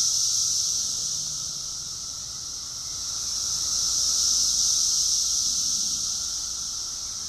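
A chorus of cicadas making a loud, steady high-pitched drone that swells and fades in waves: softer about two seconds in, building to a peak in the middle, and softening again near the end.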